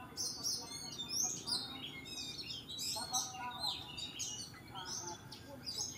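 Songbirds chirping: a busy run of short, varied chirps and whistles, several overlapping.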